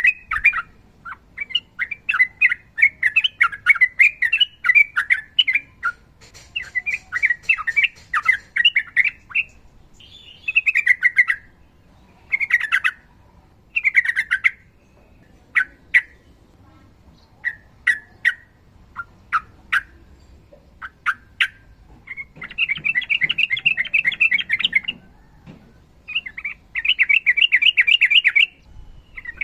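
Sooty-headed bulbul (trucukan) singing in rapid chattering trills, in bouts a few seconds long. Midway the song breaks into short separate notes, then long trills return near the end.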